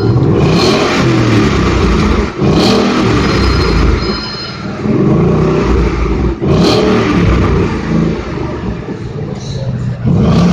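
Ford Mustang engine revved hard several times, the pitch climbing and falling with each blip of the throttle and dropping briefly between revs.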